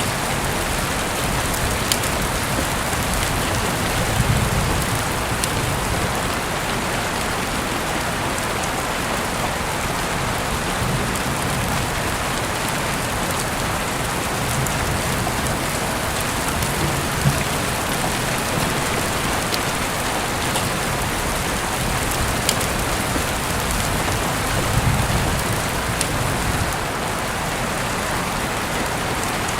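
Heavy rain falling steadily, with scattered sharper drop ticks. Low rumbles swell briefly about four seconds in and again near the end.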